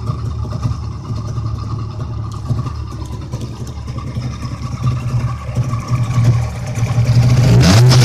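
Three-cylinder two-stroke engine of a 1958 Auto Union 1000S running steadily, louder near the end. It is freshly revived from seizure and running rich on a heavy 16:1 oil-fuel mix.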